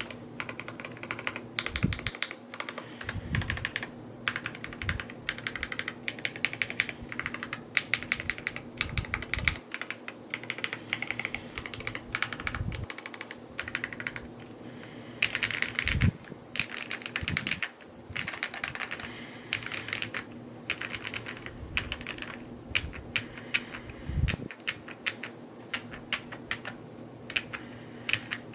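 Typing on an Evo80 mechanical keyboard: a fast, continuous run of key clicks, with a deeper, lower knock every few seconds.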